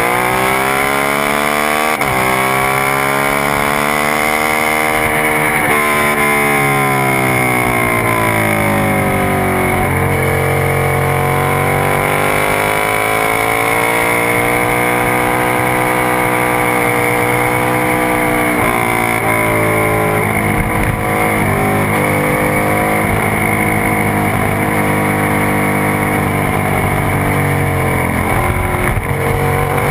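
Sport motorcycle engine at speed, heard from the bike itself on a racetrack lap. Its pitch climbs and falls repeatedly as it accelerates and slows for corners, with sudden breaks at the gear changes every few seconds. A steady rush of wind noise runs under it.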